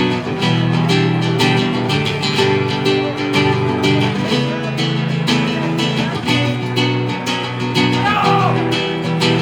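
Acoustic guitar strumming chords in a steady rhythm, played live as the instrumental opening of a song.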